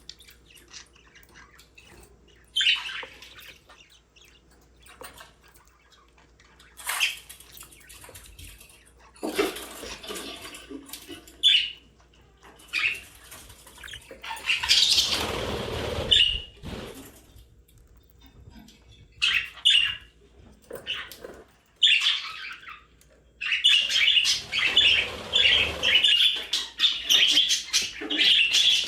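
Budgerigars chirping and chattering in short scattered calls, turning into a steady run of fast warbling chatter over the last few seconds. A couple of louder rustling noises come in the middle.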